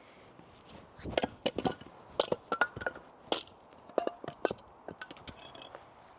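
Firewood being chopped and snapped for a campfire: a quick, irregular series of sharp wooden cracks and knocks.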